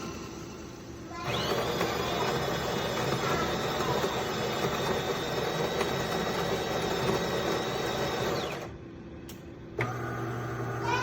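De'Longhi Dinamica Plus espresso machine's built-in grinder grinding beans, a steady motor whine that starts about a second in and stops after about seven seconds. About a second later a low steady hum starts, typical of the machine's pump beginning to brew.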